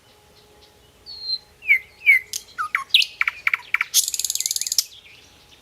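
Birds chirping: a whistled note, several short calls sliding downward in pitch, then a quick run of sharp calls, followed by a fast, dry rattling trill lasting about a second.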